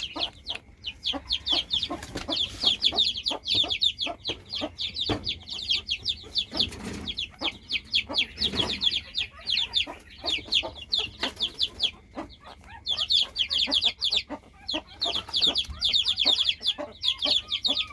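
Rapid, high-pitched cries from a young animal, several a second, with a few short pauses.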